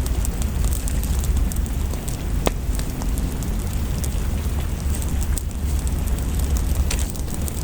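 Wood fire crackling over steady rain: an even hiss and low rumble, with scattered sharp pops and snaps, the sharpest about two and a half seconds in.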